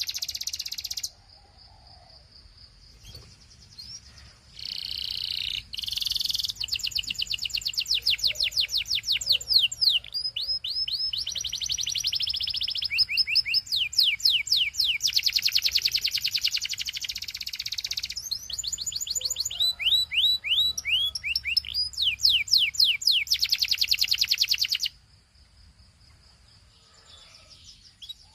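Belgian canary singing: long rolling tours of rapidly repeated high sweeping notes, the pattern changing every second or two. There is a pause of about three seconds near the start, and the song breaks off a few seconds before the end.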